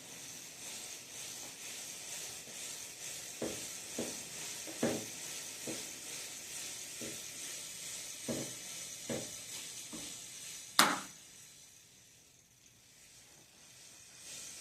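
Aerosol lubricant spraying onto a bicycle's drivetrain: a steady hiss with scattered light clicks, cut off by a sharp click about 11 seconds in.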